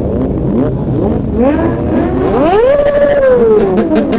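Several sport motorcycle engines idling and blipping their throttles; about two seconds in, one revs up, holds briefly, and slowly winds back down.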